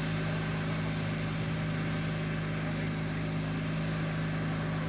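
Steady engine drone with a strong low hum and a hiss over it, unchanging throughout.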